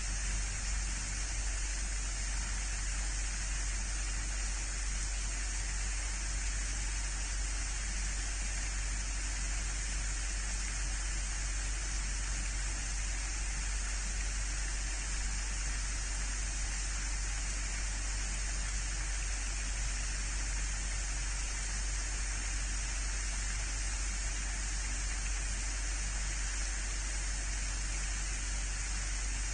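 Steady, even hiss with a constant low hum beneath it, unchanging throughout, with no distinct calls or knocks standing out.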